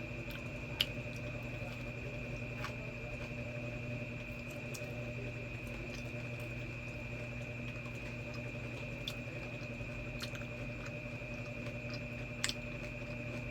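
A person chewing a soft, chewy marshmallow-based cookie: faint wet mouth sounds with a few sharper clicks, the clearest about a second in and near the end, over a steady electrical hum with a high whine.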